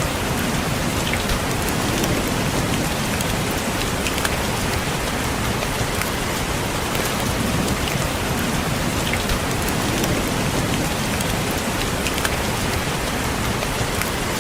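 Steady rain falling, with many small raindrops tapping sharply on a window pane.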